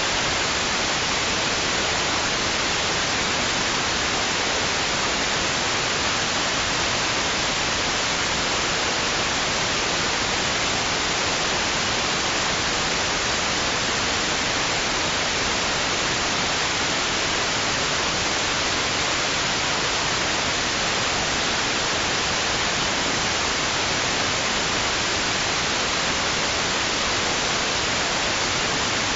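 Steady white noise: an even hiss that never rises or falls, with no breaks or swells.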